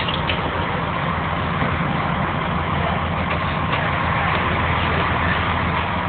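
A ferry's engines droning steadily, heard from on board, under a constant rushing noise.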